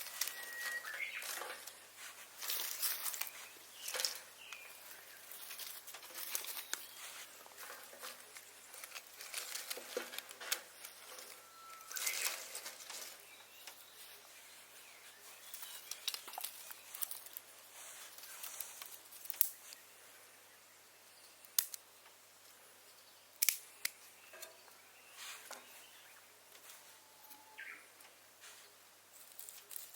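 Handling noises: scattered light taps, clicks and rustles of objects being set in place, with a few sharp single clicks in the second half.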